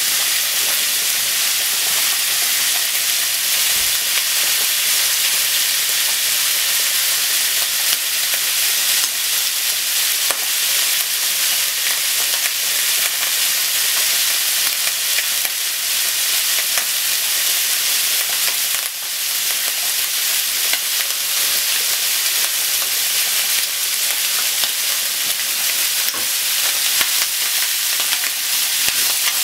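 Sliced onion and bacon sizzling steadily in a nonstick frying pan, a constant hiss with fine crackling. Near the end, chopsticks start stirring them through the pan.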